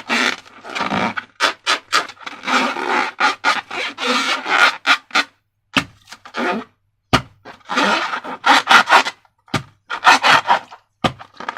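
Rubbing and scraping handling sounds from balloons and slime-making materials, in irregular strokes of varying length, with a sharp snap about seven seconds in.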